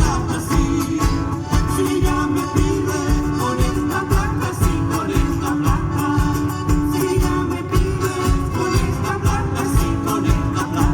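Live Chilote folk music, a cueca chilota: singing with guitar over a steady, evenly spaced low drum beat.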